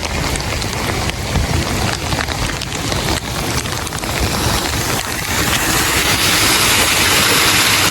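Heavy rain falling and pattering on surfaces, a dense hiss full of individual drop ticks over a low rumble, growing louder and hissier about five seconds in.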